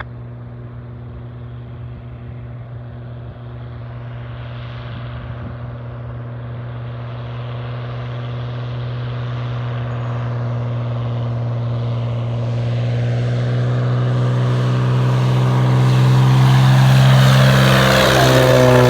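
Propeller-driven floatplane engine, a steady droning hum that grows louder over about fifteen seconds as the plane comes close. The pitch drops slightly near the end as it passes.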